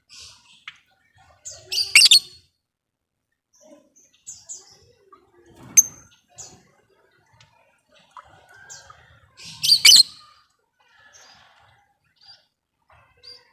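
Lovebirds calling: scattered short high chirps, with two loud harsh screeching bursts, about two seconds in and again near ten seconds, and one sharp single call around six seconds.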